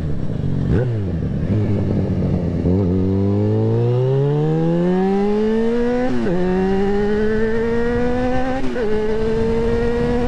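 Yamaha XJ6N / FZ6R motorcycle's 600 cc inline-four engine under way: a quick throttle blip about a second in, then a long pull with the pitch rising. It shifts up about six seconds in, with a pitch drop, and keeps climbing, with another short dip near the end.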